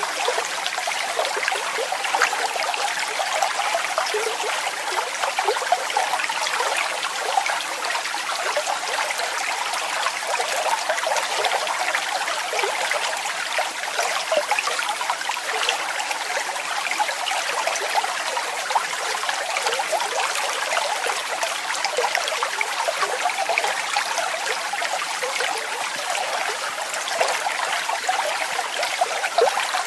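Water of a small waterfall splashing and gurgling steadily, a bright, busy spatter with no deep rumble.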